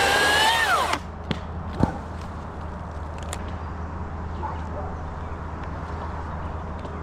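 Chainsaw running at high speed, its whine dropping in pitch and stopping about a second in. A sharp thump follows about two seconds in, over a steady low hum.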